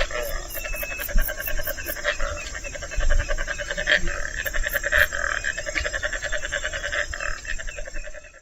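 Marabou stork sounds: a fast, dense rattling with a few louder knocks along the way, fading out at the end.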